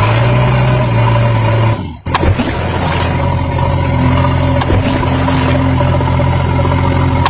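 A heavy vehicle engine running steadily in a low drone, cutting out abruptly about two seconds in and then picking up again.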